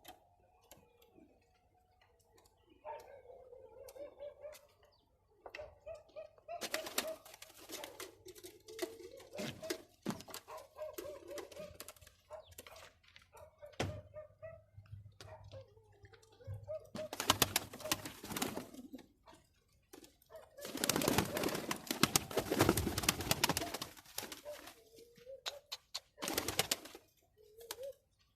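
Domestic pigeons cooing over and over, with several loud bursts of rustling noise, the longest lasting a few seconds about two-thirds of the way through.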